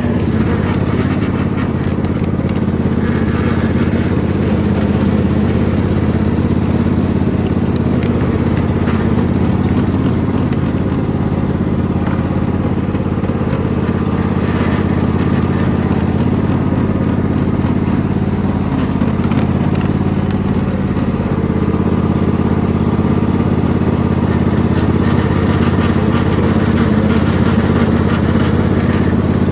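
Riding lawn mower engine running steadily, its pitch holding nearly even.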